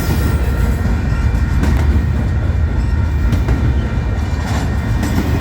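Freight train cars rolling past close by: a loud, steady low rumble with wheel clatter on the rails. A grade-crossing bell sounds faintly over it.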